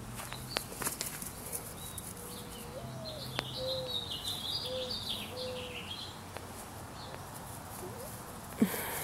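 Birds calling: a few short, low cooing notes and a higher, jumbled twittering song through the middle seconds. A single sharp knock comes near the end.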